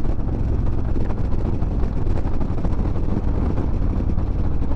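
Harley-Davidson Street Bob 114's Milwaukee-Eight V-twin running steadily at cruising speed, with strong wind rushing over the microphone.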